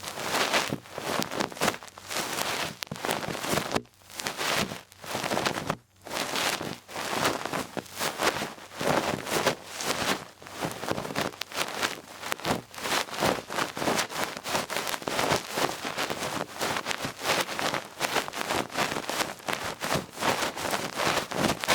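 Duck-feather ear-cleaning stick brushing and rubbing close against the microphone, a dense run of quick scratchy rustling strokes that pauses briefly about 4 and 6 seconds in.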